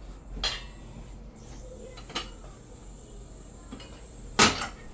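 Cookware clattering in a kitchen: three sharp knocks of pots or utensils, the loudest near the end.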